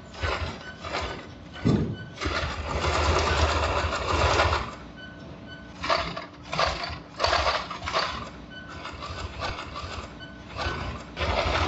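Boot-repair workshop machinery running in a series of short, irregular bursts, with one longer run of about two seconds.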